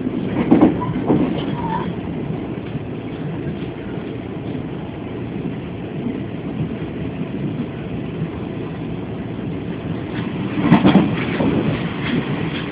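Steady rumble of a Chu-Kuang Express passenger train running, heard from inside the carriage, with louder bursts of clatter about half a second in and again near the end.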